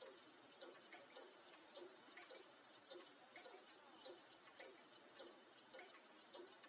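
Faint, regular ticking, about two ticks a second, evenly spaced.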